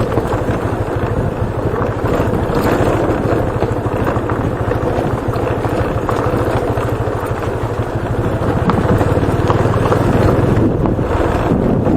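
Motorcycle engine running steadily under way, with wind noise on the helmet-mounted action camera's microphone. It grows slightly louder in the second half.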